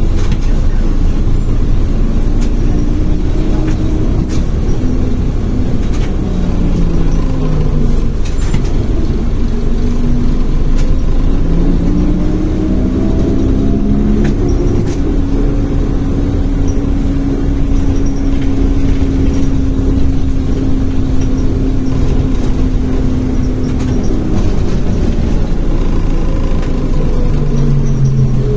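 ZiU-682 trolleybus under way, heard on board: the DC traction motor whines, rising in pitch as it accelerates and falling as it slows, then holding a steady note for several seconds before dropping again near the end, over road rumble and occasional clicks and rattles.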